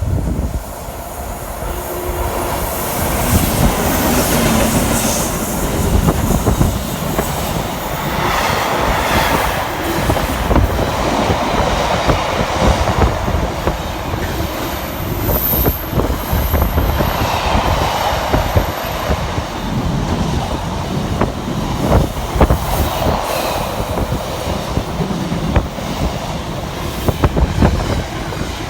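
A train running through the station, with a loud continuous rumble of wheels on rails and repeated clacks over the rail joints. The sound rises sharply at the start and eases off near the end.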